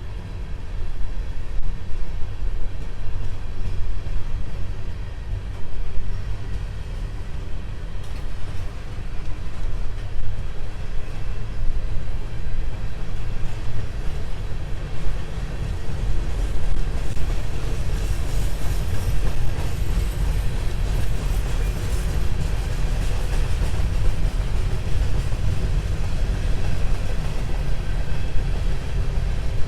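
Empty freight cars of a CSX grain train rolling past with a steady rumble of wheels on rail and continual clicking over the track.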